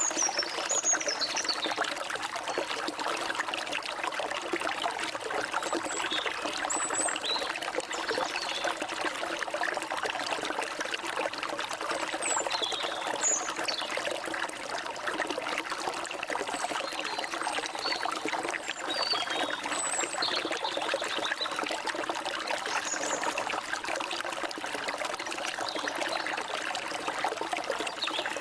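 Small forest stream trickling and splashing steadily over rocks, with a few short, high bird chirps scattered through it.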